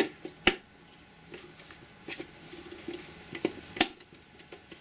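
Plastic clicks and light knocks as the parts of a dehumidifier's water tank are pushed back down and clipped into place: a few separate sharp clicks, the loudest near the end.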